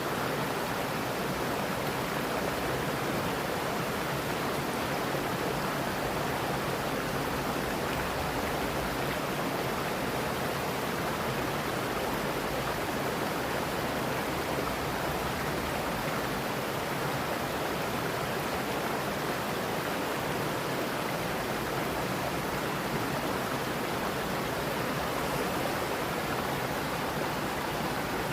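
Stream water rushing steadily over rocks, an unbroken, even wash of sound.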